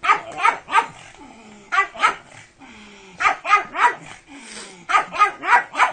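A pug barking in four quick runs of two to four sharp barks each.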